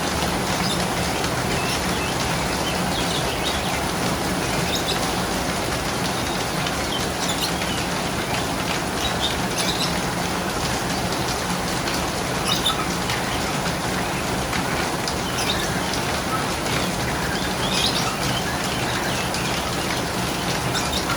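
Birds chirping in short, scattered calls over a steady background hiss and low hum.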